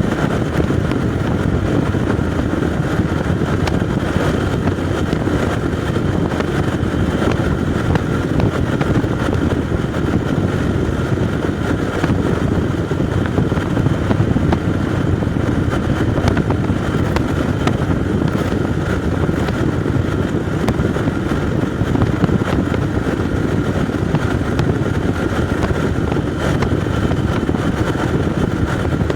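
Motorcycle being ridden, its engine running steadily under a constant rush of noise, with no change in pace.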